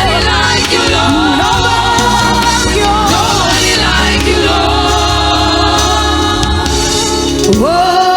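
Gospel choir singing with band accompaniment and a steady bass; the voices move in runs, and near the end a voice slides up into a long held note.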